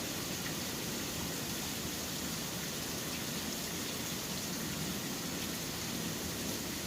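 Steady rain falling, a constant even hiss with faint scattered drop ticks, over a low rumble of city traffic.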